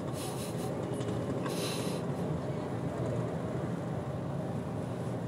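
Steady low engine hum inside a parked car's cabin, as of the car idling, with two brief rustling hisses in the first two seconds.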